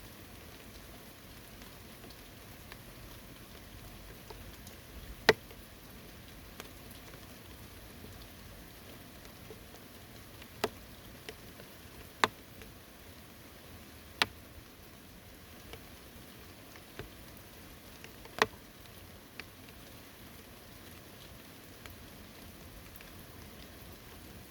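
Steady light rain falling, a soft even hiss, with about five sharp taps of single large drops striking close by.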